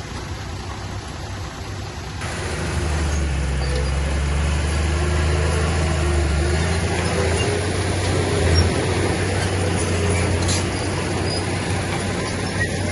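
Heavy diesel engine of earthmoving machinery running, its drone growing louder and heavier about two seconds in as it takes load, with a couple of short metallic knocks later on.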